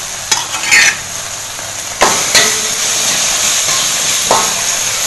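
Ground spice paste frying in oil in a pan, sizzling steadily while a spatula stirs and scrapes through it, with a few sharp knocks of the utensil. The sizzle grows louder about two seconds in.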